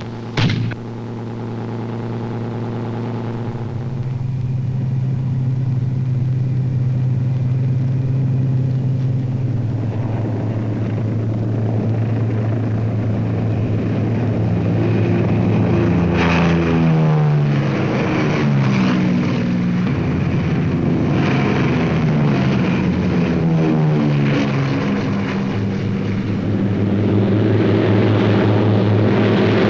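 Propeller aircraft engines droning steadily and growing louder. Partway through, several planes pass one after another, each engine note falling in pitch as it goes by.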